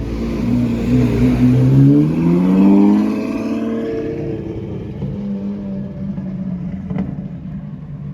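A car engine accelerating, its pitch rising over about two seconds, then holding steadier and slowly fading.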